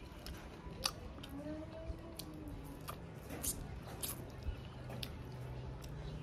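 Two people eating grilled fish by hand: scattered small clicks and smacks of chewing and of picking fish bones from the mouth.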